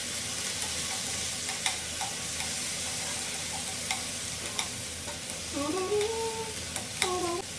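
Sliced bitter gourd (ampalaya) sizzling in hot oil and garlic in a nonstick frying pan while being stirred with wooden chopsticks, which tick against the pan now and then.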